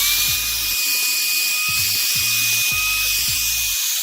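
Shark ION S87 handheld vacuum running at full speed, a steady high motor whine over a strong rush of air, picking up pieces of a chewed dog toy. The whine finishes climbing to speed right at the start.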